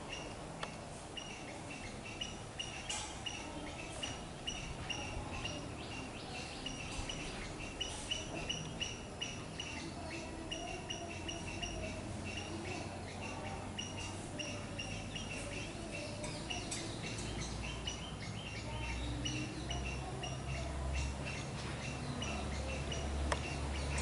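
Small birds chirping over and over, short high notes repeating about two or three times a second. A low rumble grows louder in the last several seconds.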